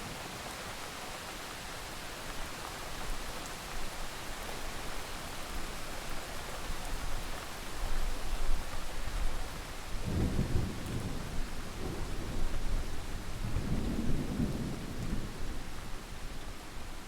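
Steady heavy rainfall hissing, with a roll of thunder that builds a few seconds in, rumbles on in deep swells for about ten seconds and dies away near the end.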